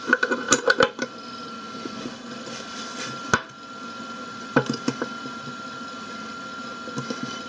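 Metal clicks and clinks of a wrench turning the bolt of a homemade bolt-and-washer press, drawing a new bearing into a washing machine drum's bearing seat. The clicks come in a cluster in the first second, once about three seconds in, and in another cluster near five seconds, over a steady high hum.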